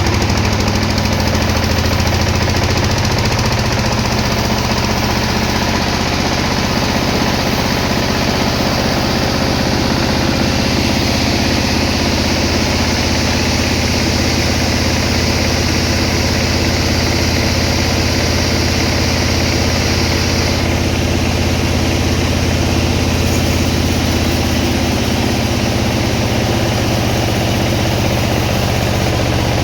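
Sawmill machinery running steadily: a loud engine hum under a constant noise, changing little.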